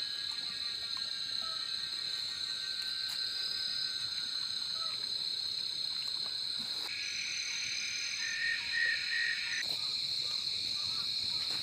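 Night chorus of insects and frogs calling: several steady, high, unbroken trills, with another call joining about 7 s in that carries a few short pulsed notes before it stops about two and a half seconds later.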